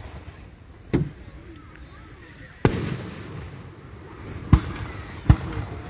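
Aerial fireworks bursting: four sharp booms, the first about a second in, one near the middle that trails off in a brief hiss, and two close together near the end.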